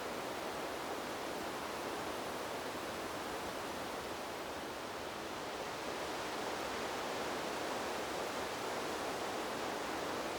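Wind blowing through trees: a steady, even rushing that swells slightly a little after halfway.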